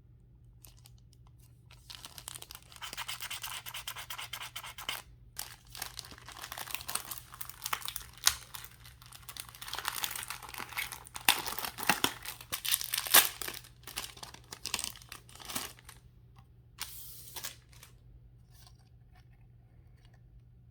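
Toy car packaging being handled and torn open: plastic and cardboard crinkling and tearing, with many sharp crackles. It starts about two seconds in and stops near the end, after a short last burst of crinkling.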